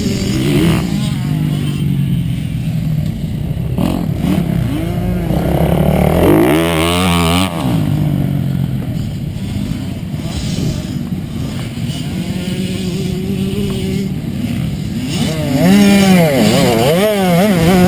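Dirt bike engine being ridden, its pitch rising and falling with the throttle. There is a hard rev up and down about six seconds in, and quick throttle blips near the end.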